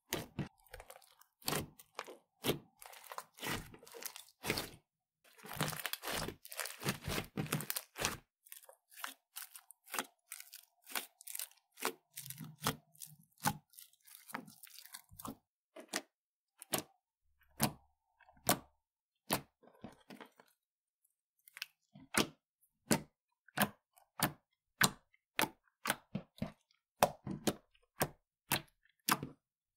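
Slime being squeezed and poked by hand, giving crackling, popping clicks. They come thick and fast for the first several seconds, then as separate sharp clicks about two a second.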